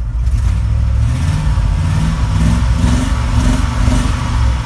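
Pickup truck engine revved several times through a new glasspack muffler and downpipe. The exhaust note climbs about a second in, then rises and falls in a few blips.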